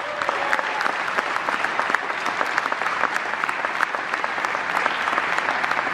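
An indoor audience applauding steadily, a dense patter of many hands clapping, with a few cheers mixed in.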